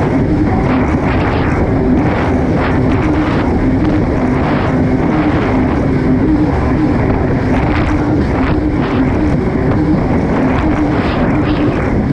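Kawasaki STX-160 jet ski's four-stroke engine running hard at a fairly steady pitch that wavers slightly, over a constant rush of wind and water spray.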